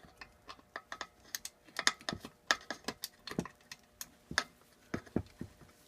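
Irregular sharp metallic clicks of a quarter-inch ratchet and socket being worked on a small engine bolt that may have just stripped. The clicks come in uneven clusters rather than a steady rhythm.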